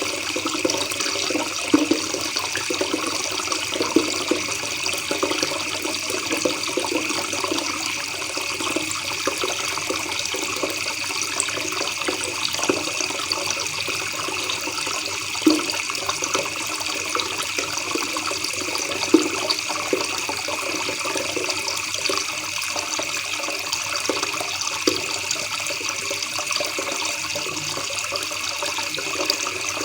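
River water gurgling and trickling steadily over stones, with a few brief sharper splashes.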